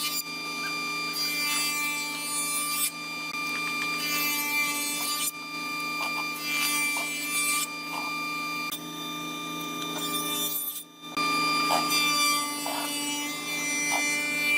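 A woodworking machine running with a steady hum, working wood in a series of passes that each last a second or two. There is a brief break about eleven seconds in.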